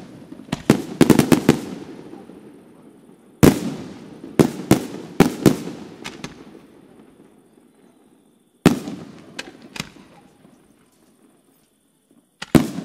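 Aerial firework shells bursting overhead in clusters of sharp bangs: a loud report followed by a quick string of smaller ones, each group dying away in an echo, about four groups in all with pauses between.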